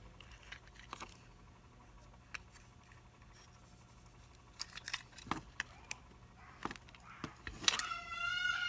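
Scattered small clicks, taps and scrapes of small plastic and metal parts being handled and worked with a small tool while an HO-scale model locomotive is taken apart. Near the end a louder, high, wavering pitched cry starts up and runs on.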